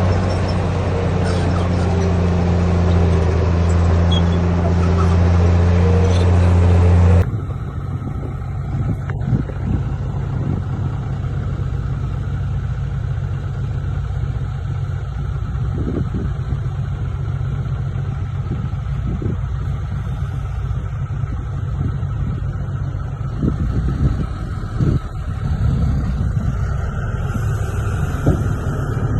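Diesel engine of heavy earthmoving machinery running loudly with a steady low note. It cuts abruptly about seven seconds in to a lower engine rumble with scattered knocks.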